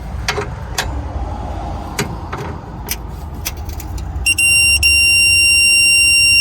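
Scattered clicks and taps of a wrench working a bolt, then for the last two seconds a loud, steady, high electronic beep with one brief break just after it starts: a digital torque wrench signalling that the set torque of 8 foot-pounds is reached.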